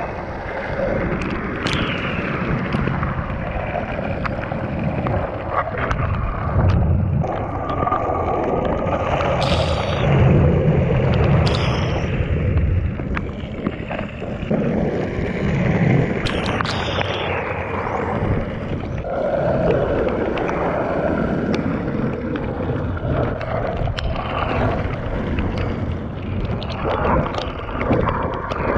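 Longboard wheels rolling over wet pavement, a continuous rumble and splashing hiss with wind buffeting the action-camera microphone, broken by a few sharp clicks and brief squeaks.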